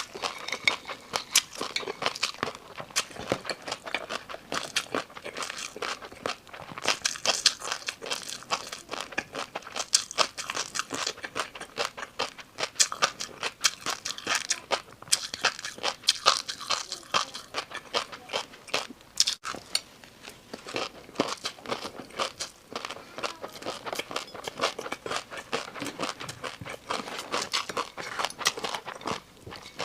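A person biting into and chewing crunchy food, with a dense, irregular run of sharp crunches.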